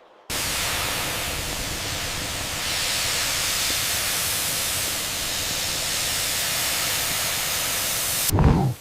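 A loud, steady hiss that starts abruptly and breaks off near the end into a short, low thump.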